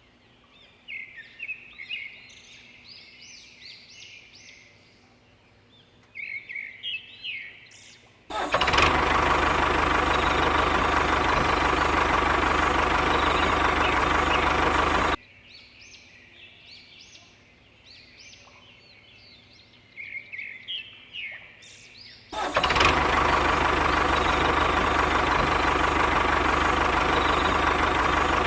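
Small electric motor of a homemade model tractor running with a steady whirring buzz. It switches on abruptly about 8 seconds in, cuts off about 7 seconds later, and starts again near the end. Birds chirp in the gaps while it is off.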